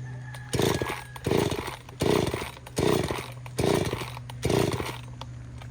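Stihl 070 two-stroke chainsaw running at idle, opened up to high revs in six short, evenly spaced bursts.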